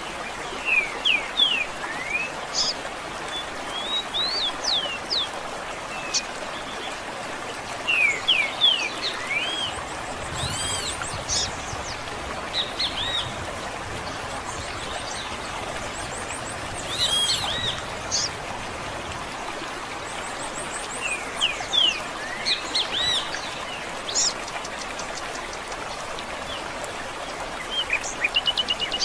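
Several songbirds chirping and whistling in short clusters of quick sweeping notes every few seconds, over a steady rush of running water.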